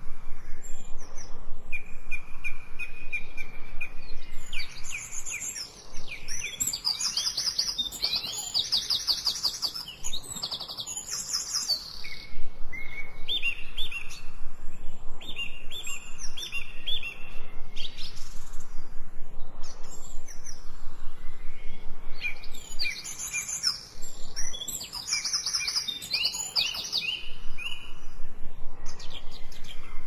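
Songbirds singing and chirping: held whistled notes and rapid trills in repeated phrases with short pauses, mixed for the 8D effect so the song seems to move around the listener.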